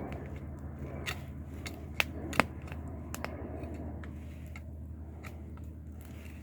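Wood fire crackling, with irregular sharp pops, the two loudest about two and two and a half seconds in, over a steady low hum.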